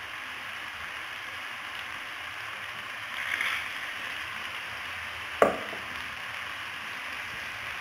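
Mutton liver pieces sizzling steadily in oil in a nonstick frying pan. The sizzle swells briefly a little past three seconds, and a single sharp knock, the loudest sound, comes about five and a half seconds in.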